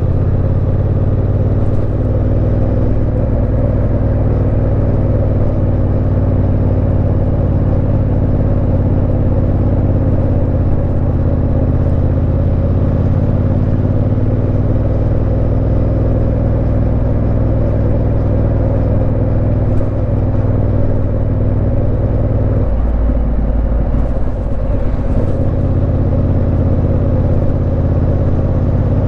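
Yamaha Ténéré 700's parallel-twin engine running at a steady cruise. About two-thirds of the way through, the engine note changes for a couple of seconds, then settles back.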